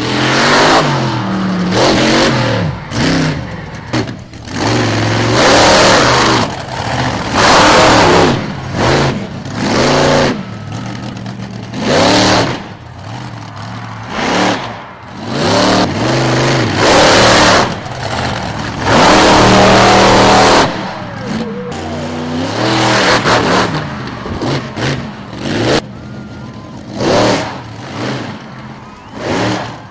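Monster truck's supercharged V8 revving hard in repeated full-throttle bursts, its pitch climbing and falling again and again, with a quieter spell of lower revs about two-thirds of the way through.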